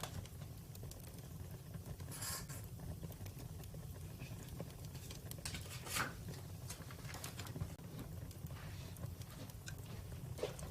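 Wood fire crackling: scattered sharp pops and snaps over a steady low rumble, the loudest pop about six seconds in.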